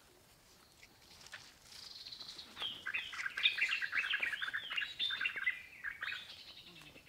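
A songbird singing a fast, continuous jumble of chirps and warbling notes. It starts about two seconds in and fades out near the end, with a few faint knocks in between.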